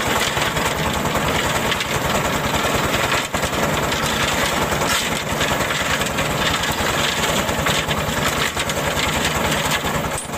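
Small motor running steadily with a fast, even rattle, cutting off abruptly near the end.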